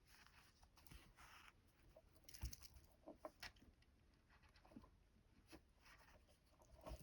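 Faint hand embroidery: soft rasps of thread being drawn through fabric, and a few small clicks and taps as the needle is handled.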